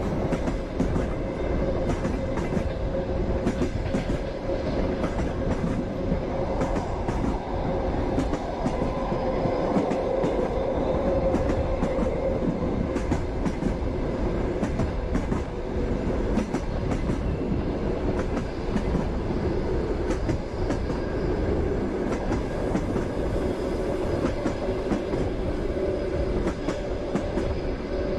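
Passenger train running steadily, its wheels clacking over the rail joints in irregular clusters of clicks over a continuous rumble and a steady hum.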